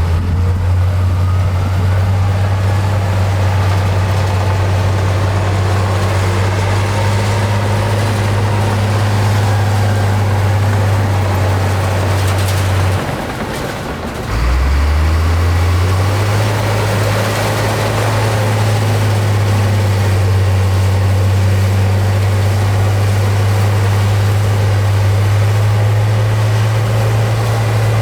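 Heavy diesel engine of earthmoving machinery running steadily under load. About 13 seconds in it eases off for a moment, then picks up again with its pitch rising.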